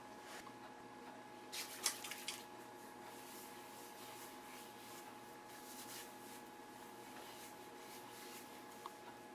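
Faint rustling and squishing of hands working conditioner-coated hair into a twist, with a brief louder flurry of rustles about two seconds in and a small click near the end, over a steady faint hum.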